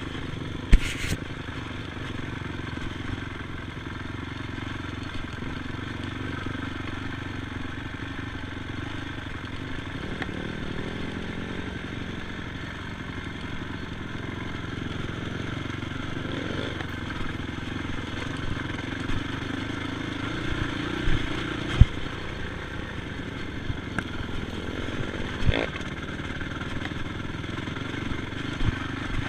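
ATV engine running while riding, its pitch shifting up and down, with occasional sharp knocks and clatter.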